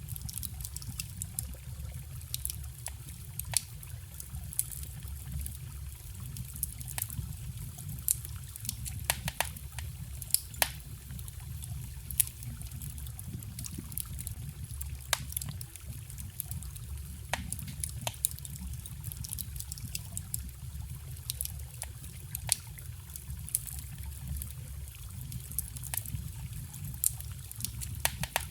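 Wood bonfire crackling, with frequent irregular sharp pops and snaps, over a trickling stream and a steady low rumble.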